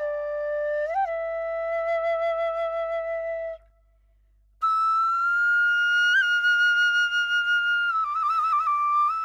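Vietnamese bamboo flute (sáo trúc) playing a slow melody in long held notes with quick grace-note ornaments. It breaks off for about a second near the middle, then returns on a long higher note and ends with a fast trill.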